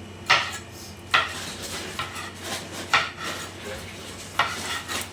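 Pots, pans and metal utensils being handled: four sharp clanks with smaller knocks and scrapes in between.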